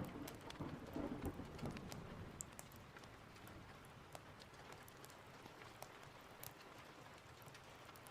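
Steady rain with a roll of thunder dying away over the first two seconds, and scattered sharp ticks throughout.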